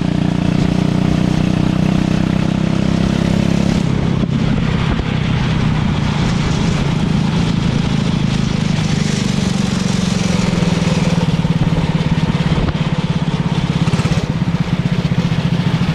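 Go-kart engine running steadily. About four seconds in, it changes to a rougher, pulsing run.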